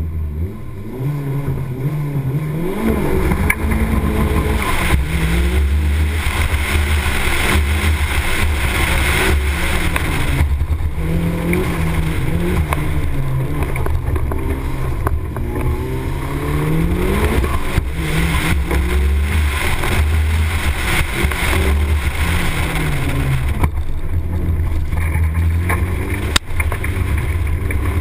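Mitsubishi Colt EVO 9 engine accelerating hard and lifting off again and again through a cone slalom, its pitch climbing and dropping every second or two, over a heavy low wind rumble on the outside-mounted microphone. A single sharp knock near the end.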